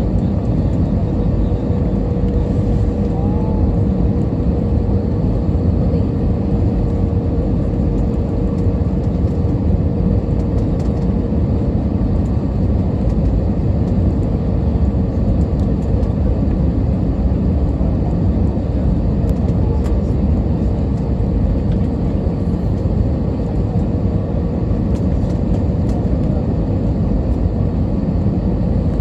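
Steady cabin noise inside an Airbus A320 airliner: a low rumble of engines and airflow with a thin, even hum running through it.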